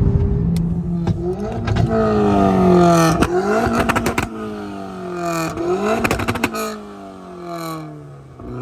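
Car engine revved hard three times, each rev climbing quickly and sliding slowly back down, with sharp exhaust pops and crackles near the top of the revs.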